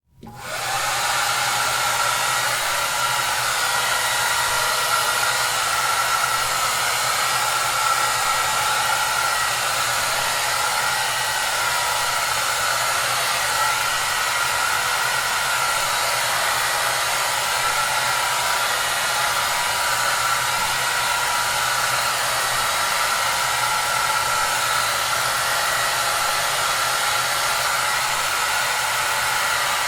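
Hair dryer running steadily: an even rush of blown air with a faint motor hum and a whine. It comes in quickly out of silence at the very start, then holds unchanged.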